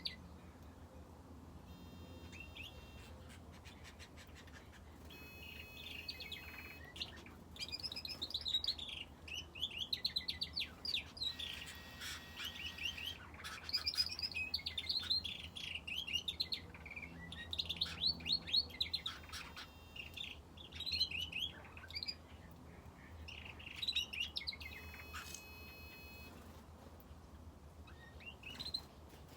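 Small aviary birds, finches and a canary, chirping and calling: many short, rapid chirps with a few nasal, buzzy calls, busiest through the middle. A low steady hum runs underneath.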